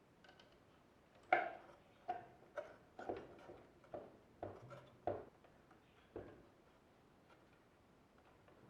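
Parts of a Nespresso coffee machine clicking and knocking as they are handled and fitted back together: about ten light, irregular taps, stopping about six seconds in.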